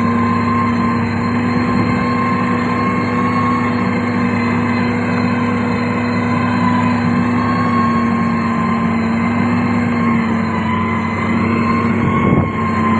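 Heavy diesel engine of a road-building machine running steadily at a constant pitch, close by, with a brief dip in sound about twelve seconds in.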